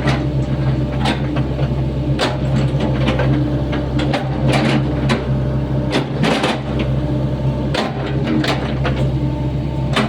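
Sany SY75C mini excavator's diesel engine running steadily under working load, with irregular sharp knocks and scrapes from the bucket digging a trench in hard ground.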